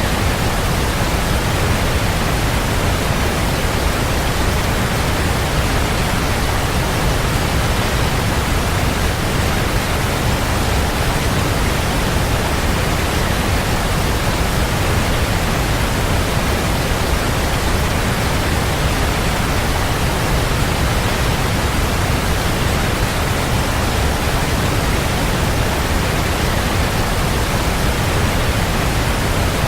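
Waterfall: a steady, even rush of falling water with a strong low rumble, unchanging throughout.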